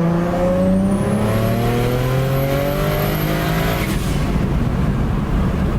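BMW 335i's N54 inline-six, converted to a single turbo, accelerating hard: the engine note and a high turbo whine climb together until about four seconds in, when the whine cuts off suddenly at the shift. The engine then runs on at a steady lower pitch. The owner says it is "kind of missing" (misfiring) and slows down after the shift, pending a tune adjustment.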